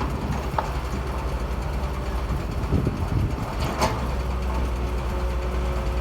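Heavy diesel engine of an excavator or dump truck running steadily at a low, even speed. A short click comes about half a second in, and a sharper clank just before the four-second mark.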